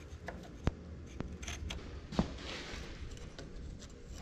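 A few sharp clicks and light taps from handling a measuring tool against the metal cylinder parts while the cross tube is measured.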